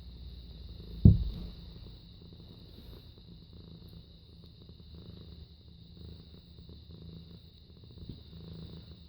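Domestic cat purring steadily in low, even pulses, with one sharp thump about a second in.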